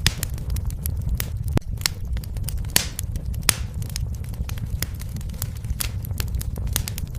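Wood fire in a fireplace crackling, with irregular sharp pops and snaps over a steady low rumble of the flames; a few pops stand out louder, around the middle.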